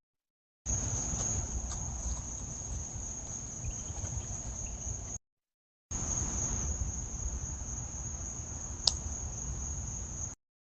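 Crickets keep up a steady high-pitched chorus over a low rustling rumble. The sound drops out to dead silence twice, and there is one sharp click near the end.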